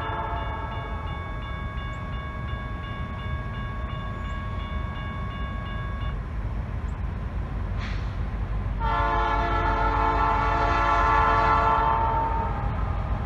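Diesel freight locomotive's air horn sounding over the low rumble of the train. One long blast ends about six seconds in, there is a brief burst near eight seconds, then a second, louder long blast.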